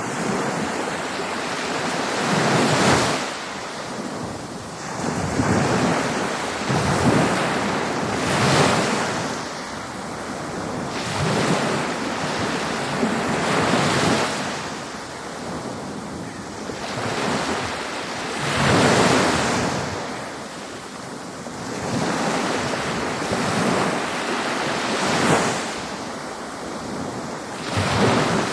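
Ocean waves breaking and washing on a shore, a steady rush that swells and falls back every few seconds.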